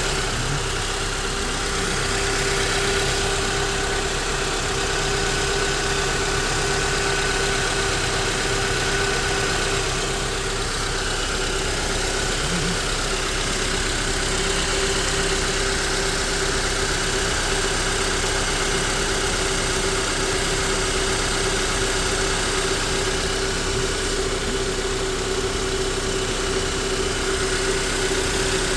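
Honda Accord 2.4 L inline-four engine idling steadily with a newly replaced power steering pump turning, a steady tone running over the engine sound.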